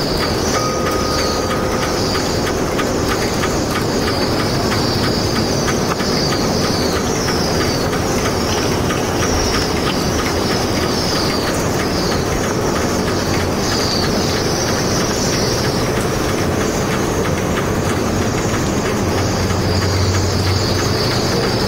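A flock of cedar waxwings giving a run of thin, very high, falling calls, with a break shortly before the end. Under them runs a loud, steady rumble of machinery or traffic.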